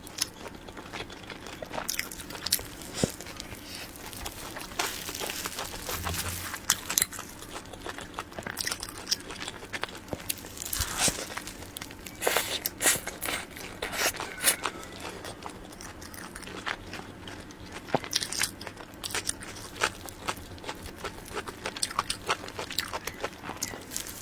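Close-miked eating of cream-filled sponge cake rolls: bites and chewing, with many irregular sharp wet mouth clicks, thickest in the middle of the stretch.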